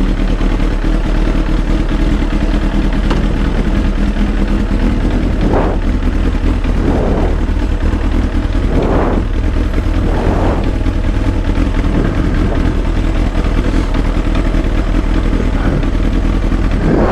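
Kawasaki ZX-7R's inline-four engine and exhaust running steadily while riding, picked up close to the exhaust. A few short surges in the sound come through the middle.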